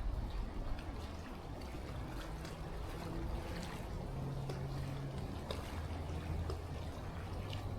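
Faint, steady trickle of water in outdoor ambience, with a low hum in the middle stretch.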